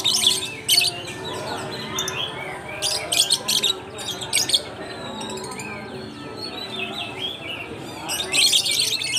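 Many lovebirds kept together in a dealer's cage, chattering with shrill, harsh high-pitched calls in repeated bursts, loudest at the start and near the end, over a background of voices.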